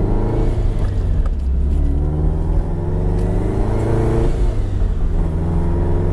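Flat-four boxer engine of a Subaru BRZ-type sports coupe, heard from the cabin, pulling under acceleration through a modified exhaust that is a little louder than normal. Its pitch climbs, drops sharply about four seconds in at a gear change, then climbs again.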